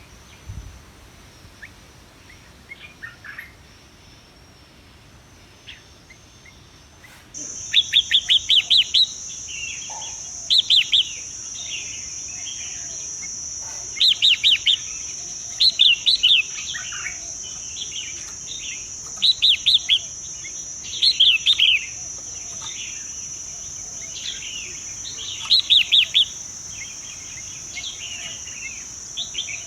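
A bird calling in quick series of five or six sharp chirps, repeated every couple of seconds, over a steady high-pitched insect whine that starts suddenly about seven seconds in. Before that there are only faint, scattered chirps.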